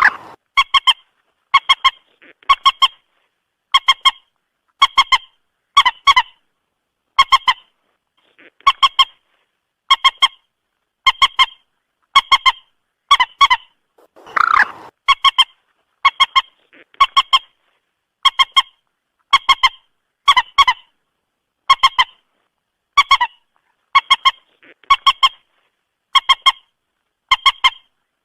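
Moorhen calling: short, sharp double notes repeated at an even pace, about three every two seconds, with dead silence between them. Two longer, harsher and lower calls break in near the start and about halfway through.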